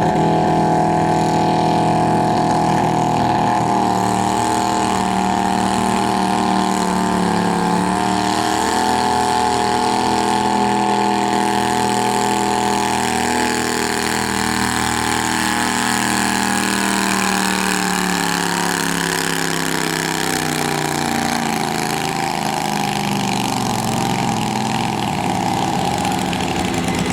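Garden pulling tractor engine running loud and steady at high revs, its pitch dipping briefly about a third of the way in, then sinking slowly over the last ten seconds.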